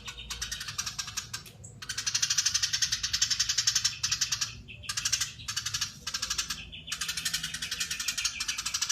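Eurasian tree sparrow giving long, dense runs of rapid, dry chattering notes, broken by short pauses three or four times.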